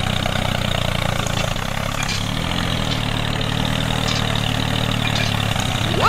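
Tractor engine idling steadily, with a brief dip and wobble in its note about two seconds in before it settles again.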